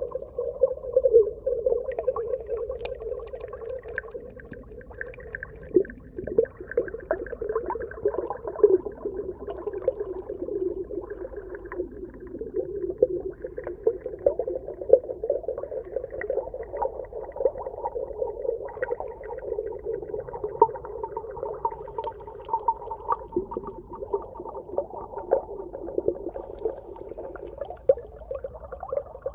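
Underwater ambience: a continuous low hum with many short, irregular clicks and crackles over it.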